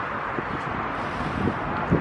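Steady rushing noise of wind on the microphone, outdoors among parked cars, with no clear engine note standing out.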